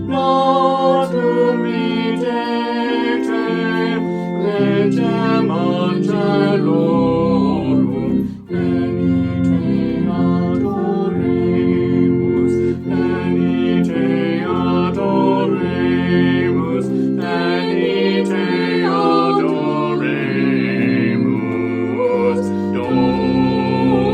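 Church organ music with a choir singing along, sustained chords over a held bass line.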